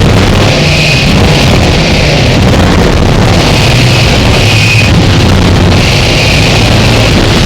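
Harsh noise wall: a dense, very loud, unbroken wash of distorted electronic noise with a heavy low rumble, and a hissing upper band that swells and fades every second or two.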